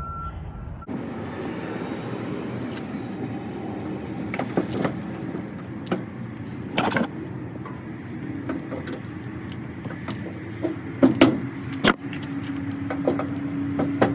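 A vehicle's reversing alarm beeping in short repeated tones that stop about a second in. Then a steady vehicle hum with scattered clicks and rattles, louder clicks around eleven seconds in.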